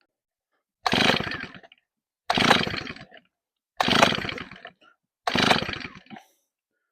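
Stihl 034 chainsaw being pull-started: four hard pulls on the recoil starter rope, about a second and a half apart, the engine cranking over but not firing. The ignition is giving no spark.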